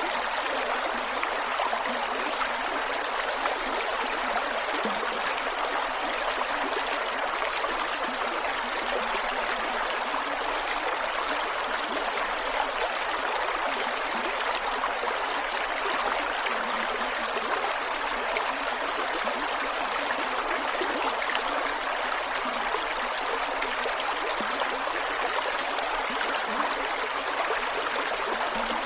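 Creek water flowing over rocks, steady and gurgling.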